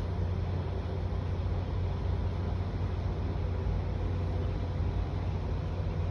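Steady, unchanging outdoor ambience: a low rumble under a faint hiss, with no distinct events.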